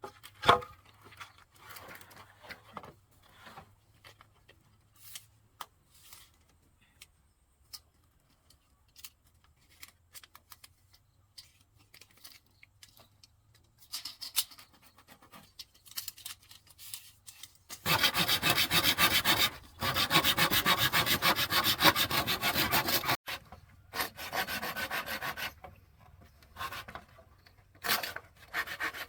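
A hand tool rasping on bamboo. Scattered light clicks and knocks come first; a little past halfway, a loud, steady rasping runs for about five seconds, followed by shorter rasping spells near the end.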